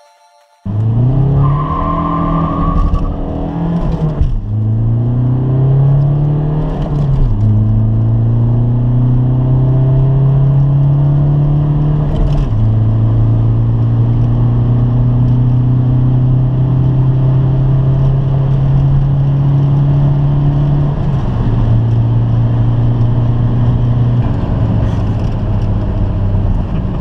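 Chiptuned Škoda Octavia 1.9 TDI four-cylinder turbodiesel accelerating hard from a standstill to 160 km/h. The engine note climbs steadily through each gear and drops sharply at several gear changes, and the sound cuts in suddenly just after the start.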